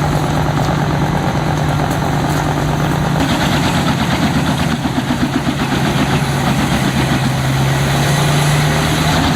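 An engine running steadily at a high, even speed, its pitch settling slightly lower in the second half.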